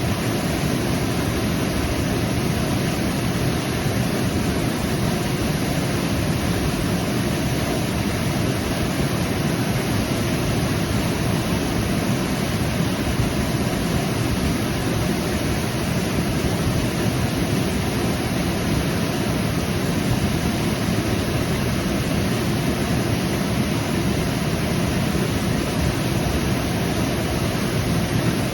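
Waterfall: a steady rush of falling water, heaviest in the low rumble, with no change throughout.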